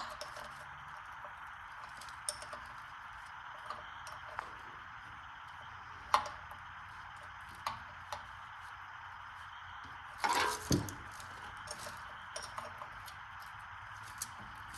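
Metal hand tools clicking and clinking against the engine as a stubborn bolt is worked on, with a louder clatter about ten seconds in, over a steady background hiss.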